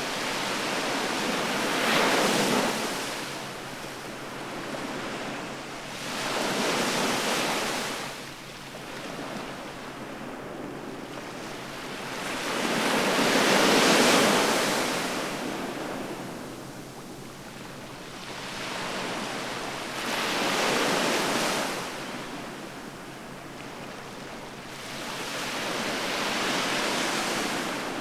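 Sea waves washing ashore in a slow rhythm: about five surges of hiss that swell and ebb every five to seven seconds, the loudest about halfway through.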